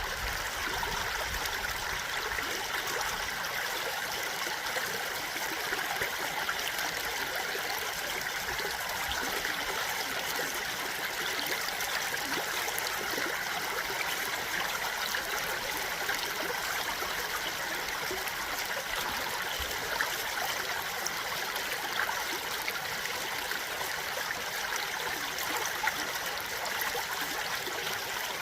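A stream flowing steadily: an even, unbroken rush of running water, light on low rumble.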